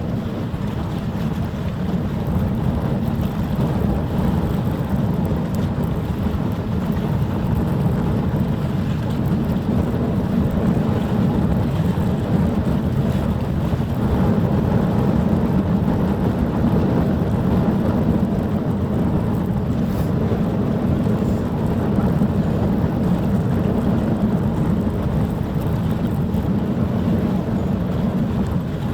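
Steady low rumble of wind buffeting the microphone, with a faint steady hum underneath.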